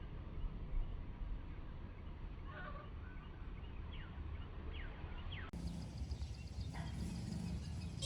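Steady low background rumble with a few short bird calls in the middle: one brief call, then three quick falling chirps. The background changes abruptly about two-thirds through.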